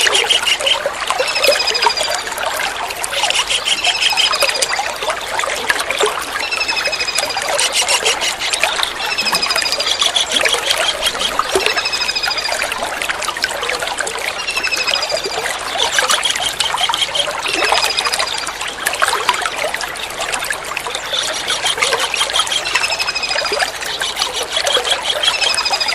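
Kingfisher calls over steadily trickling water. The birds give short, high, downward-sliding notes about every two seconds, now and then breaking into a quick trill.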